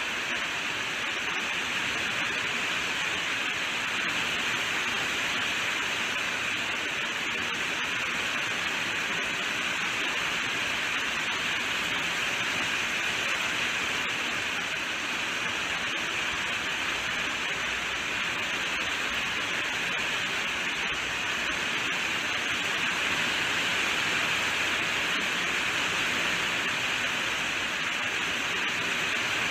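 Steady rainfall, an even hiss with no distinct drops or thunder.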